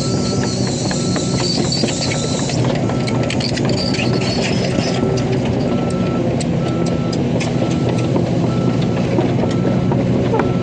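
Excavator engine running steadily under a repeating single-pitch warning beep, about one and a half beeps a second. Sharp clicks and knocks of metal join in from about two and a half seconds in.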